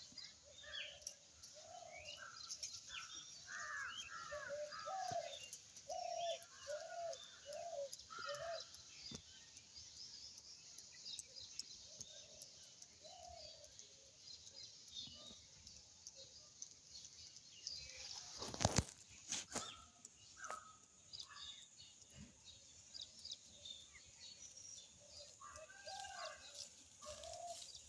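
Birds calling and chirping over and over in short, arched notes, with a brief loud rustling burst about two-thirds of the way through.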